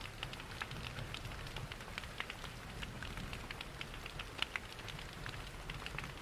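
Mixed ambience of a wood fire crackling with many short, irregular pops, over steady rain and a low rushing of falling water. One pop, about four and a half seconds in, is louder than the rest.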